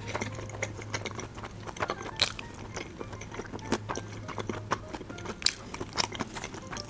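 Close-miked chewing of a boiled dumpling: wet mouth clicks and smacks scattered irregularly, over a steady low hum.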